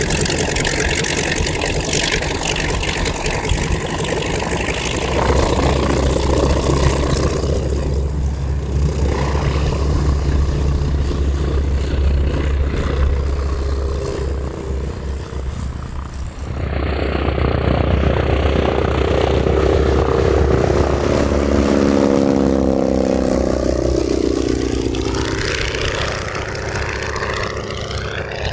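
North American AT-6 Texan's Pratt & Whitney R-1340 radial engine and propeller running at power, with the engine note dropping in pitch about two-thirds through as the plane passes.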